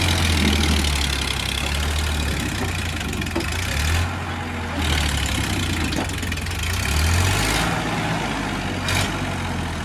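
Sonalika 745 DI tractor's diesel engine running hard, its level swelling and dipping every second or two.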